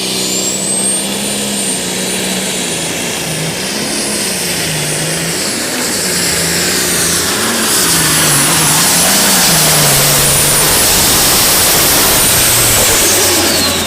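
Light super stock pulling tractor under full throttle on a pull. Its turbocharger's high whine climbs in the first second, holds, and falls away near the end as the engine comes off the throttle, over an engine note that wavers up and down.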